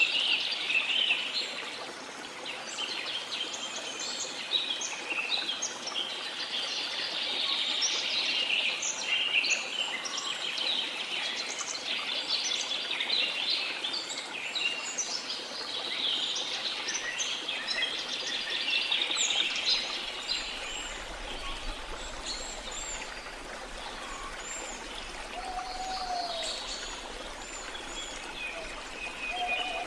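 Chorus of many jungle birds chirping and whistling in quick, overlapping calls over a steady rush of falling water. A couple of lower whistled calls stand out near the end.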